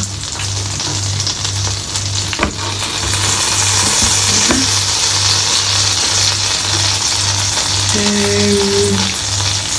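Food sizzling in a frying pan, growing louder about three seconds in, over a low hum that pulses about twice a second, with a single click a couple of seconds in.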